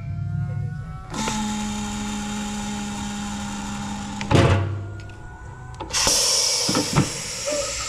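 A small power tool's motor runs steadily for about three seconds and stops with a sharp knock. Near the end there is a hissing rush of noise.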